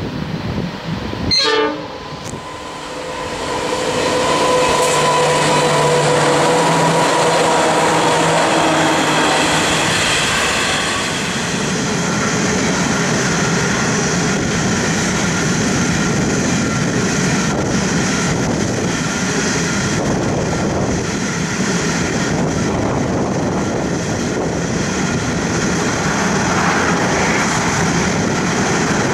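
Loaded coal train working up a grade: diesel locomotives pass with a steady engine drone carrying several held tones, which fade about eleven seconds in, then a long rake of loaded coal hoppers rolls by with a continuous rumble of wheels on rail and faint clacks.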